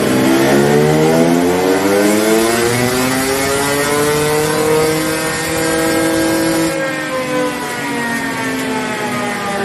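KTM TPI fuel-injected two-stroke dirt bike engine making a dyno pull: the revs climb smoothly under load for about six seconds, then fall away as the throttle is closed.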